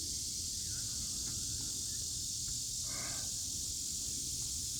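Steady high-pitched drone of a cicada chorus, unchanging throughout, over a low rumble, with one short sound about three seconds in.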